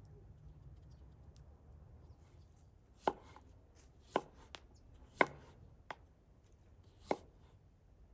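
Knife chopping on a cutting board: about six sharp, irregularly spaced chops, starting about three seconds in.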